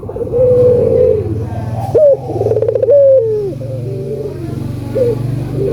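Ringneck doves (burung puter) cooing in repeated rolling calls that rise and fall in pitch, several phrases overlapping one another, with a long held coo near the end.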